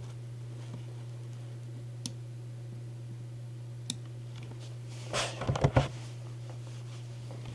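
A steady low hum with two faint sharp clicks, then a brief cluster of rustling knocks about five seconds in, the loudest moment.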